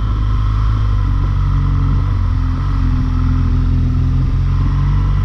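BMW R1200GS Rallye's boxer-twin engine running steadily under way, heard on board the motorcycle, with its pitch holding nearly level.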